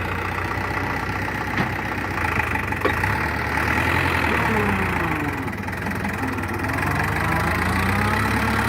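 Diesel tractor engine running steadily, its pitch dipping and then climbing back partway through.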